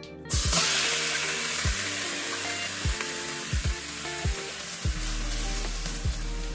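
Seasoned chicken feet hitting hot oil in an aluminium pot and sizzling. The sizzle starts suddenly about a third of a second in and slowly dies down while they are stirred with a spoon.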